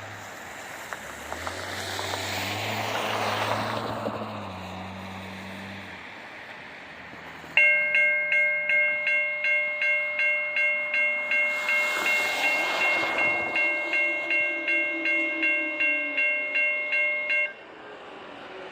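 Railroad grade-crossing bell ringing at about two strikes a second, starting abruptly and cutting off suddenly. Before it, a low engine hum and a passing rush of vehicle noise.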